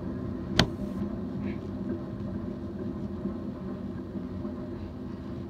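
A train rolling past with a steady low rumble. There is one sharp, loud click about half a second in and a fainter tick a few seconds later.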